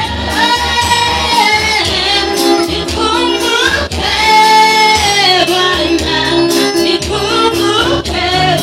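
Gospel praise and worship music: a group of singers, women's voices strongest, singing a held, bending melody over steady band accompaniment with a bass line.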